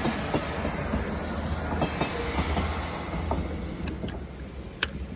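Arriva diesel multiple unit pulling away: a low engine rumble with the wheels clicking over rail joints, slowly fading as it leaves. A single sharp click near the end.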